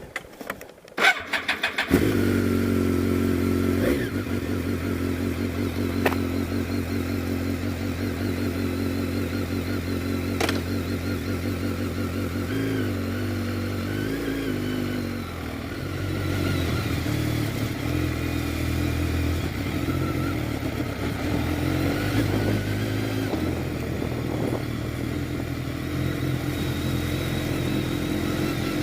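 Motorcycle engine starting: a brief burst of cranking about a second in, catching at about two seconds, then running at a steady idle, with the revs wavering up and down briefly around the middle.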